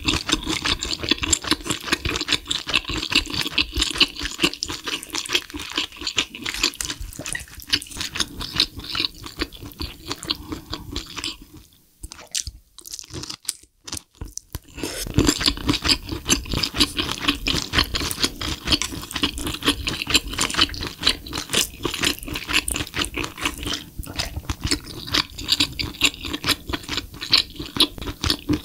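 Close-miked chewing of spicy braised lobster tail meat in sauce, with many small wet clicks and smacks. The chewing drops off for a couple of seconds near the middle, then picks up again with a fresh mouthful.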